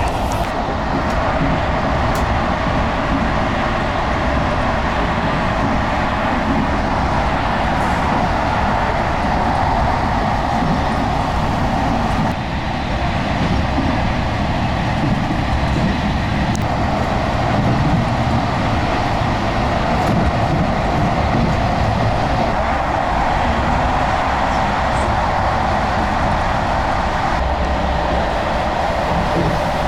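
Passenger train running at speed: a steady rumble and rush of the moving carriage, with a few faint clicks.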